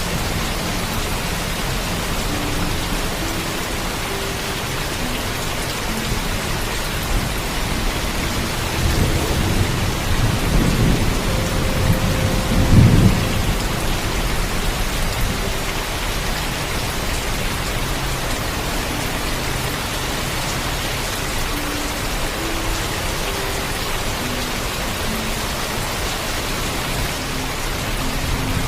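Steady heavy rain with a rolling thunder rumble that builds about a third of the way in, peaks shortly before the middle and then fades back into the rain.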